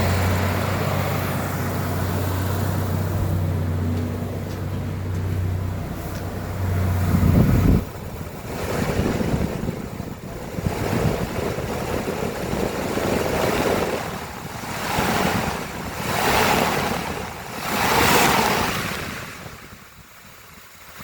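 2000 Ford Ranger engine idling steadily on a run test, briefly louder, then shut off about eight seconds in. After that, rushing wind noise swells and fades several times.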